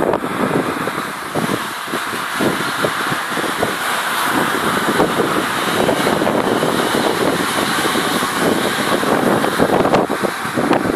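Electric multiple unit passing beneath at speed, a steady rush of wheels on rail, with wind buffeting the microphone.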